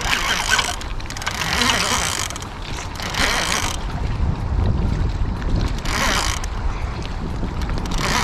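Fishing reel clicking in four short bursts while a large fish is being fought, over a steady low rumble of wind on the microphone.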